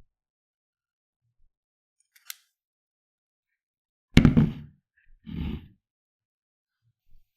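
A faint click, then two dull knocks about a second apart, the first the louder.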